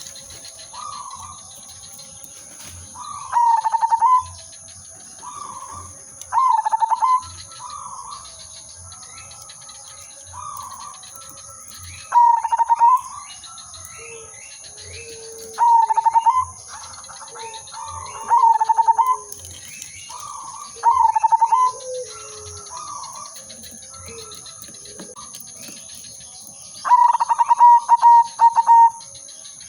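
Zebra dove (perkutut) singing: short phrases of rapid staccato cooing notes, repeated every few seconds, with a longer phrase near the end. Fainter coos sound between the phrases.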